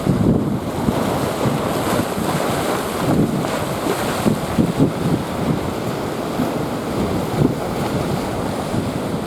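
Strong wind buffeting the microphone in uneven gusts over the steady noise of breaking typhoon waves.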